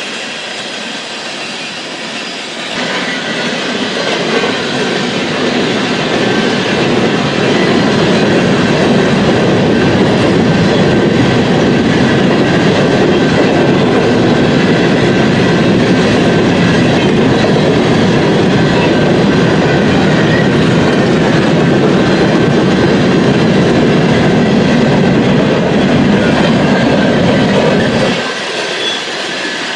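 A BNSF freight train passes at speed, a steady loud rush of wheels rolling on the rails. It rises a couple of seconds in and drops off sharply near the end.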